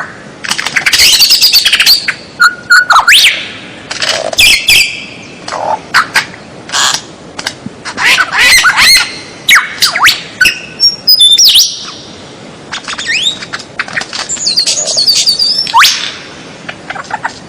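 Loud songbird song from a masteran tutor recording: quick runs of sharp whistles that sweep down in pitch, mixed with harsh squawky notes, with short pauses between runs.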